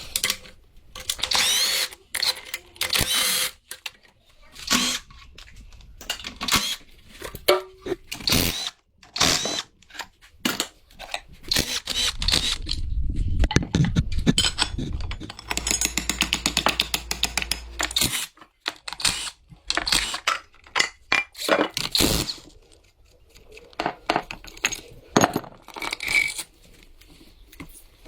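Power tool running in short bursts, with a longer run of rapid strokes in the middle, among scattered knocks and clatter of metal and tools during car repair work.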